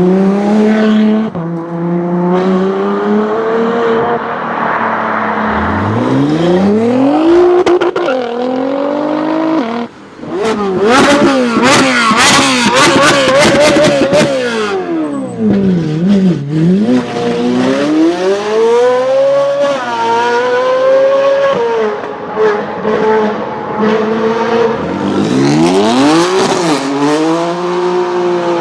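Supercar engines revving and accelerating, their pitch climbing and dropping again and again, with a brief break about ten seconds in before another run.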